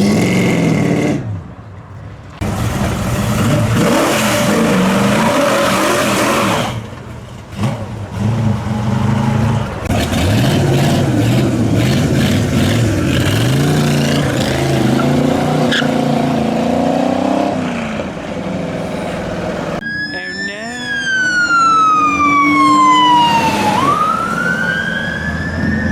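Car engines revving and pulling away, the revs rising and falling. About twenty seconds in, a siren starts wailing, sweeping down in pitch and then back up.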